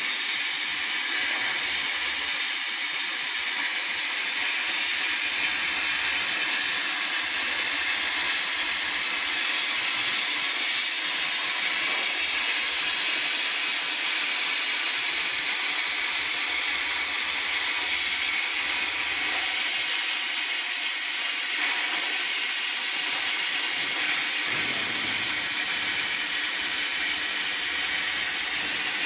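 Plasma cutting torch on a portable CNC cutter, its arc and air jet making a steady, high hiss throughout the cut.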